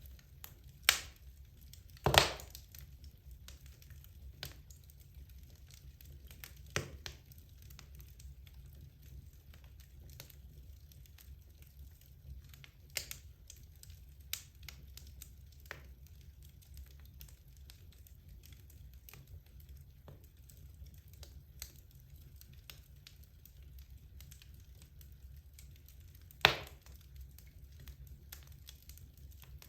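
Wood logs burning in a fireplace: faint steady crackling over a low rumble, broken by sharp pops. The loudest pops are a double pop about two seconds in and a single pop near the end.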